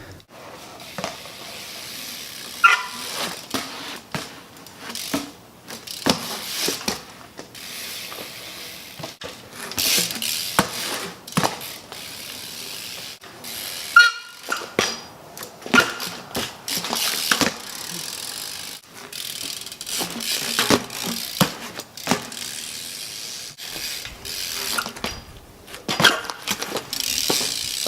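BMX bike's rear hub ratcheting as the bike coasts, among irregular knocks and short tyre scrapes as it is ridden and tricked.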